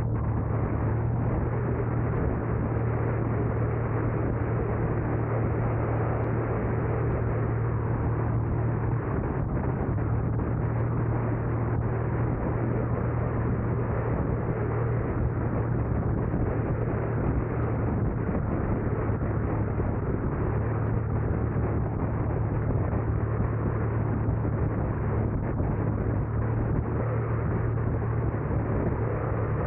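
Car driving along at a steady pace: constant engine and tyre-on-road noise with a low hum, shifting slightly about nine seconds in.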